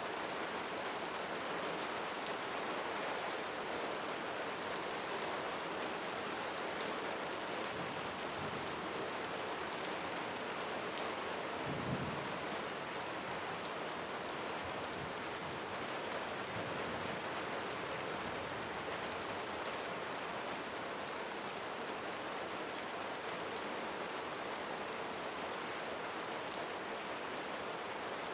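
Steady rain falling, with many individual drops ticking through the hiss. A brief low thump about twelve seconds in.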